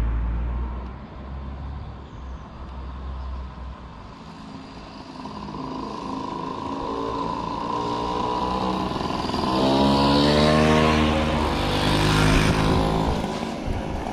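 Motor vehicle engine running and accelerating, its pitch climbing through the middle and loudest near the end.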